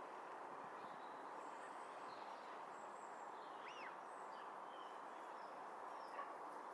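Faint, scattered bird calls, short chirps and one arching whistled note about halfway through, over a steady low hiss of outdoor background noise.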